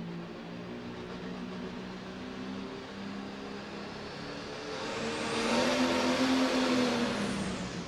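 Turbocharged pro stock diesel pulling tractor running hard under load during a pull. It grows much louder from about five seconds in, peaks, then fades near the end.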